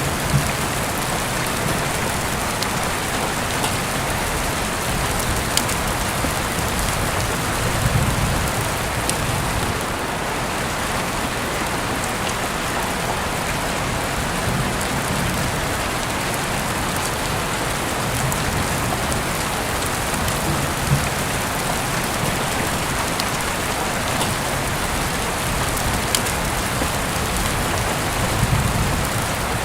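Heavy rain falling steadily as an even hiss, with occasional sharp drops ticking. Soft low swells rise briefly three times, near the quarter, the middle and the end.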